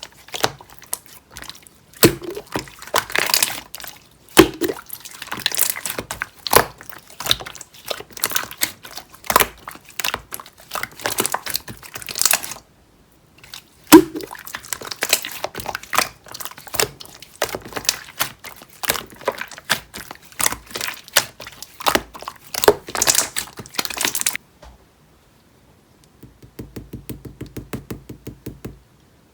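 Clear slime being squished and pressed by hand, making quick, irregular wet clicks, pops and crackles, with a short pause about halfway. Near the end it goes briefly quiet, then a softer, evenly paced run of clicks follows.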